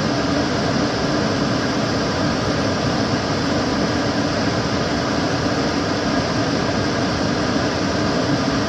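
Kitchen cooker hood extractor fan running steadily: an even rush of air and motor hum with no change in level or pitch.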